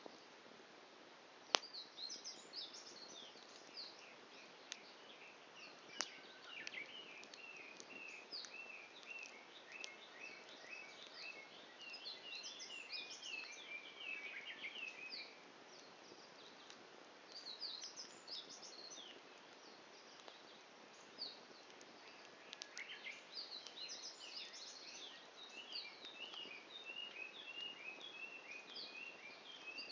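Wood fire crackling faintly, with a few sharp pops, the loudest about a second and a half in, while wild birds sing in long runs of quick repeated chirps.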